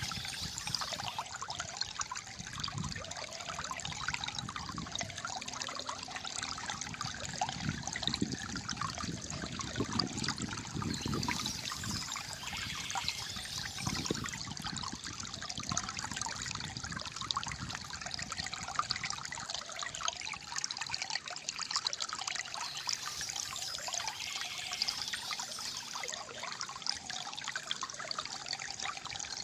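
Calm flowing water trickling and gurgling steadily.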